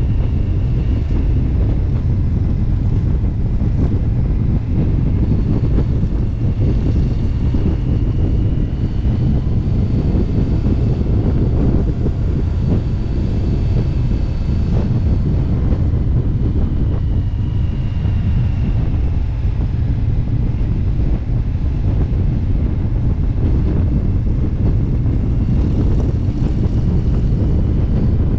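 Motorcycle engine running steadily at cruising speed, mixed with wind rushing over the microphone.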